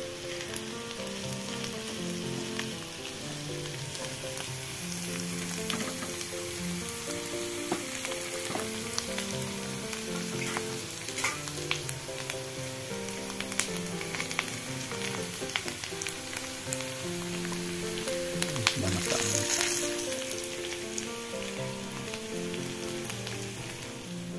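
Sliced jering (djenkol) beans sizzling as they fry in oil in a non-stick wok, with a spatula scraping and ticking against the pan now and then and a louder burst of sizzle near the end. Soft background music with a simple melody plays underneath.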